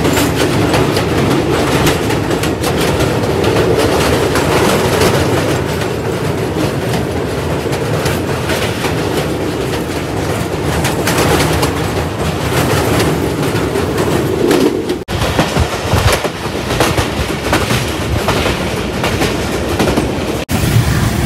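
Passenger train running across a steel truss bridge, heard through an open carriage doorway: a steady rumble and clatter of wheels on the rails. The sound breaks off sharply about 15 seconds in and comes back rougher, without the deeper drone, and breaks again briefly near the end.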